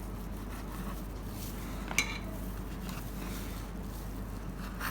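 Knife clinking against a dish while the edges are cut off a pressed slab of minced-chicken nugget mixture. There is one sharp ringing clink about two seconds in and a fainter one near the end, over a steady low hum.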